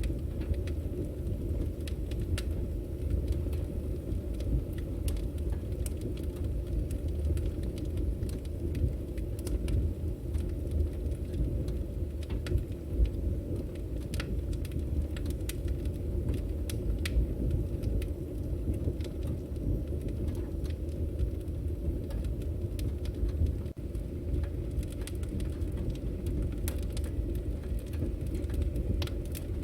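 Firewood burning: a steady low rumble of flame with frequent, irregular sharp crackles and pops from the logs.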